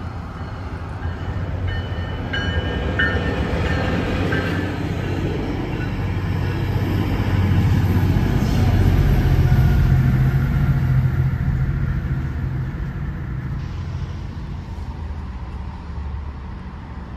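A train passing by: a low rumble that grows to its loudest about ten seconds in and then fades, with a few short high tones about two to four seconds in.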